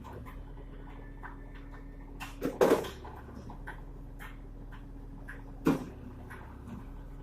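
Concrete mixer truck's engine running steadily, with scattered sharp knocks and clicks; the loudest knocks come about two and a half seconds in and just before six seconds in.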